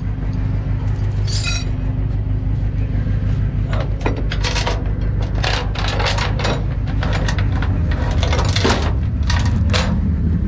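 Tow truck's engine idling steadily at low idle, with a run of sharp metallic clinks and jangles from about four seconds in to near the end.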